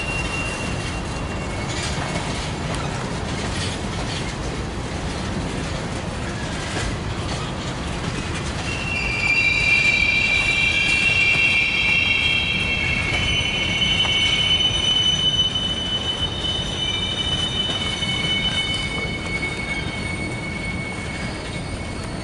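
Freight train of tank cars, flatcars and covered hoppers rolling slowly past: a steady rumble of steel wheels on rail with a few clicks in the first seconds. From about nine seconds in comes a high-pitched wheel squeal of several steady tones, loudest for the next six seconds and weaker toward the end.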